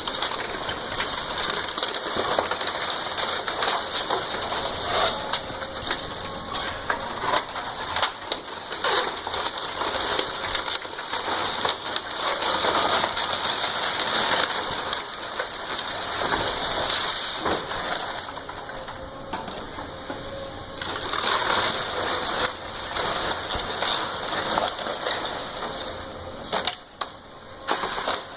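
A house being demolished: wood and debris crunching, cracking and snapping in a continuous noisy clatter.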